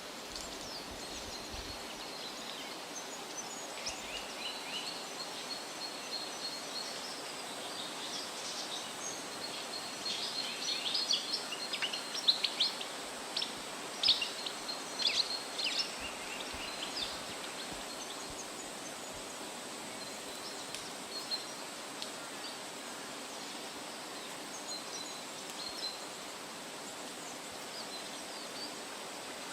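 Songbirds chirping and calling over a steady outdoor hiss. The calls are busiest and loudest in the middle, with sharp chirps and short trills, then thin out to a few scattered notes.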